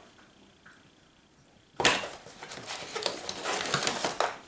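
Packaging being handled: a sharp knock about two seconds in, then paper and plastic rustling and crinkling for a couple of seconds.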